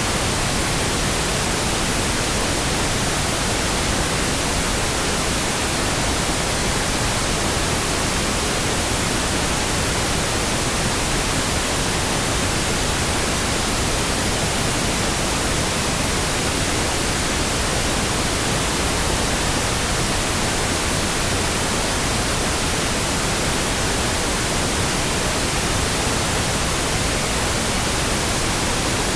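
Steady pink noise, an even hiss with no changes.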